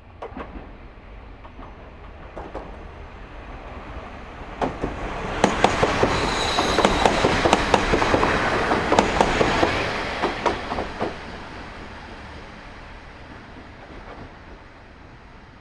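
Diesel railcar passing by, growing loud about five seconds in and fading after about eleven seconds, with wheels clacking over rail joints and a brief high wheel squeal near the loudest point.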